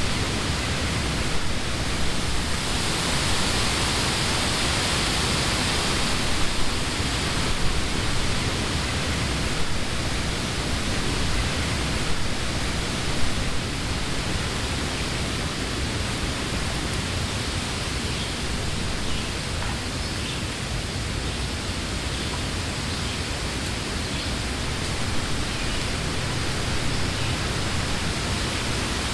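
Wind blowing through leafy trees: a steady rustling rush that swells in a stronger gust a few seconds in, then settles.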